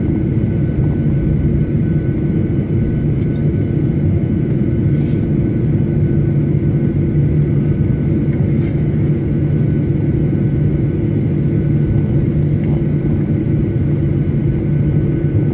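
Boeing 737-900ER cabin noise on the ground after landing: a steady low rumble from its CFM56 engines running at idle, with a faint steady high whine above it.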